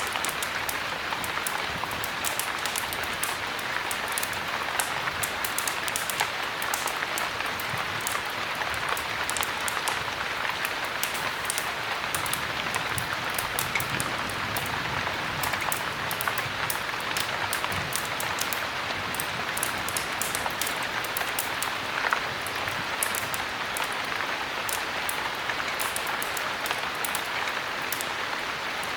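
Steady heavy rain: an even hiss of rainfall with many small, sharp ticks scattered through it.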